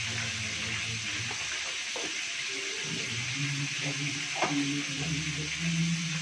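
Food frying in hot oil: a steady sizzle, with faint low-pitched tones underneath.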